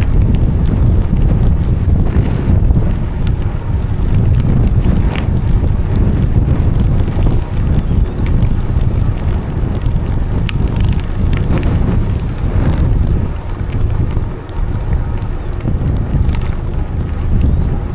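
Wind buffeting the microphone during a bicycle ride: a steady low rumble with tyre noise and occasional sharp clicks and rattles from the bike.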